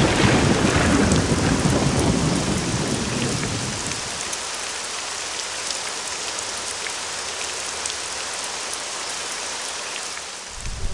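A rumble of thunder dying away over the first few seconds above heavy rain, then steady rain falling and splashing on wet pavement.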